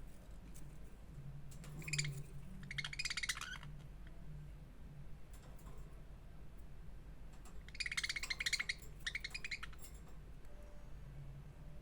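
Budgerigar chattering in short, rapid, scratchy chirp bursts: one cluster about two seconds in and another about eight seconds in, over a steady low hum.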